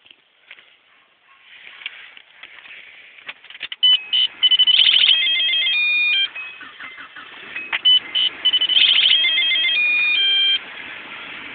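An electronic alert melody of steady beeps and quick pulsed tones plays twice, each time for about two and a half seconds, starting about four seconds in.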